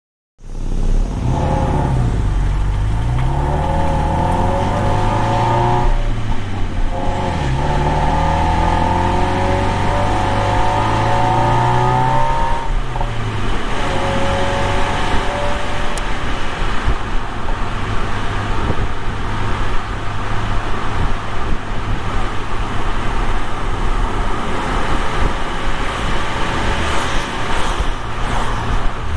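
Subaru Legacy BP5's turbocharged EJ20 flat-four engine running. Its pitch climbs twice over the first dozen seconds as the revs rise, then it runs on steadily with a broad rushing noise.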